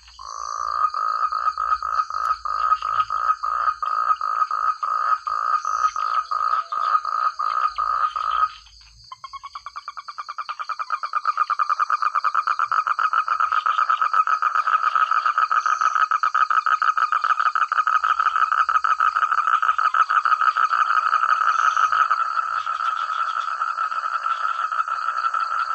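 Frog calling in a loud, rapid pulsed croak: about four pulses a second at first, a brief pause, then faster, denser pulsing that keeps on. A steady high-pitched drone runs underneath.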